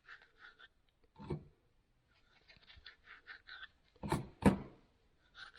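Bench vise parts being greased and handled: runs of quick, short rubbing strokes, a light knock about a second in, and two sharper knocks, the loudest sounds, about four seconds in.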